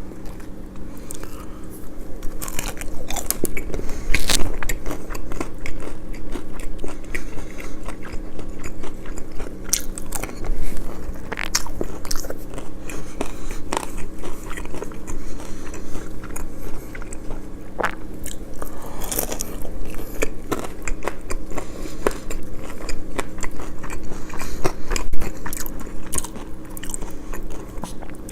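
Close-miked eating: repeated crunchy bites into fried food, followed by chewing, irregular and crackly throughout, over a faint steady low hum.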